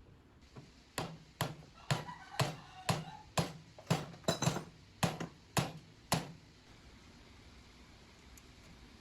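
About a dozen sharp hammer blows at roughly two a second, each with a short ring, stopping about six seconds in.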